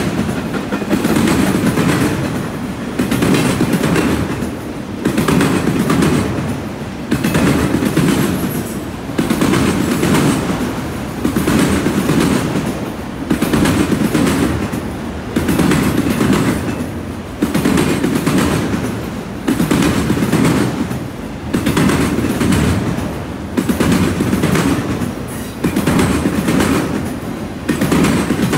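Autorack freight cars rolling past close by, their wheels clacking over the track in a loud rumble that swells about every two seconds as each car's trucks go by.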